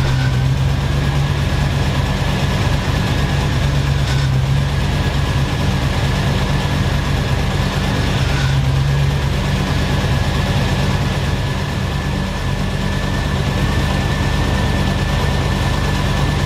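Triumph Stag 3.0-litre V8 idling steadily, with a faint steady whine above the engine note.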